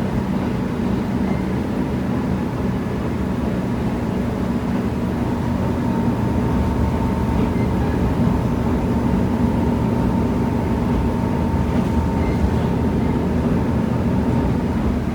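KiHa 75 diesel railcar running, heard from inside the car: a steady low engine and running rumble with a faint even whine, growing slightly louder about halfway through.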